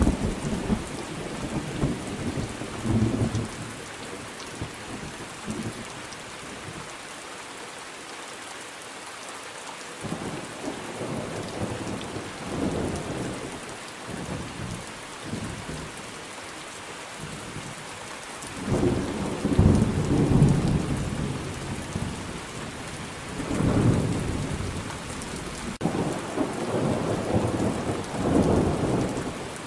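Thunderstorm: steady rain falling, with rolling thunder rumbles that swell and fade several times. There is a quieter lull in the first third, and the loudest rumble comes about two-thirds of the way through.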